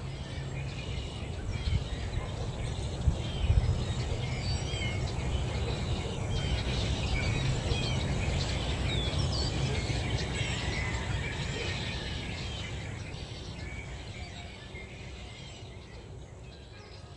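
Many songbirds singing and chirping together, short calls and quick rising and falling notes overlapping, over a low rumble; the chorus thins out and gets quieter near the end.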